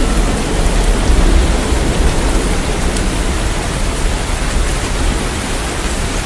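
Heavy rain falling steadily as a dense hiss, with a deep low rumble underneath that slowly eases off.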